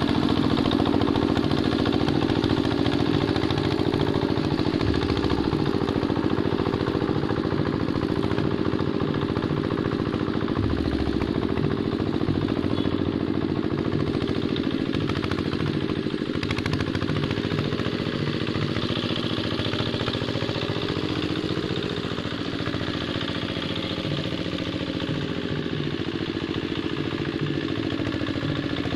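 The diesel engine of a hand tractor running steadily, with an even low throb and some rattling clatter.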